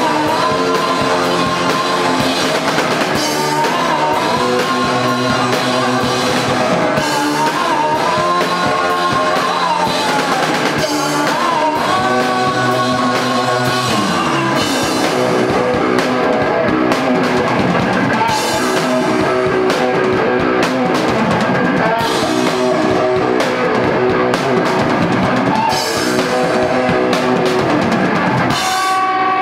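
Live rock band playing a song on drum kit and electric guitar, with singing; the song breaks off near the end.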